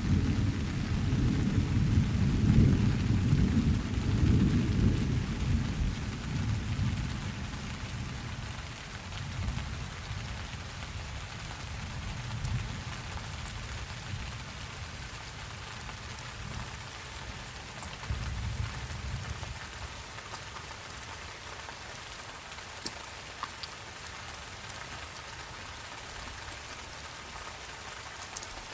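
Steady rain falling, with a long roll of thunder at the start that rumbles away over the first several seconds. A fainter rumble comes a little past halfway.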